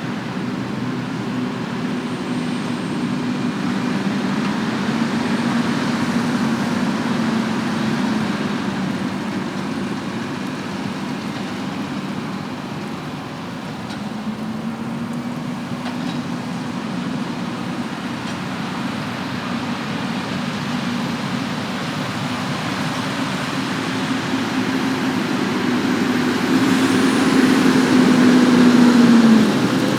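Diesel engine of a large farm machine running under load, its drone wavering slightly in pitch. It grows louder as the machine comes closer, then breaks off abruptly near the end.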